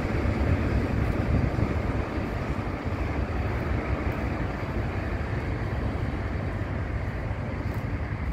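Narrow-gauge passenger coaches rolling past on the track, a steady rumble of wheels on rail with no distinct clicks.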